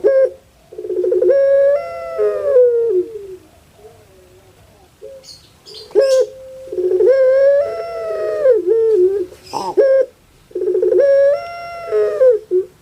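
Puter pelung dove (domestic Barbary dove, Streptopelia risoria) cooing: three long calls. Each opens with a rapid rolling stutter, then runs into held notes that fall away at the end.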